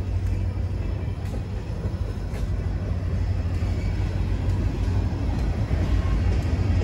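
Freight train's covered hoppers and gondolas rolling past on the rails: a steady low rumble with a few faint clicks, growing a little louder near the end.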